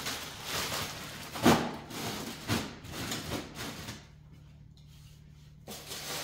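Frozen food packages being handled in a freezer: plastic bags rustling, with a couple of knocks about a second and a half and two and a half seconds in, then a brief lull near the end before the handling resumes.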